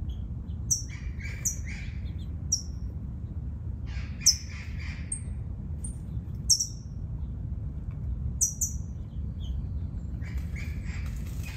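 Wild birds calling: many short, sharp high chirps, with clusters of harsher, scratchier calls about a second in, around four to five seconds in, and near the end, over a steady low rumble.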